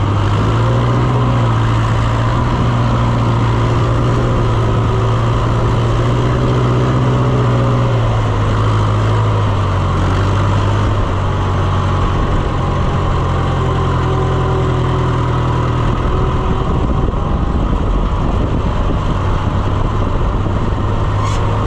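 Tractor engine running steadily while driving; its note drops slightly about eight seconds in and shifts again near sixteen seconds.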